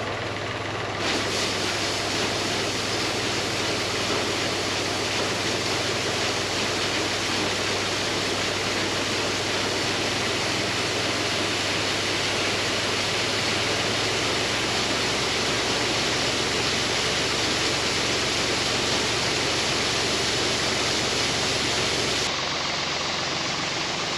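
Farm machinery running: a steady rushing noise over a low engine hum, changing abruptly about a second in and again near the end.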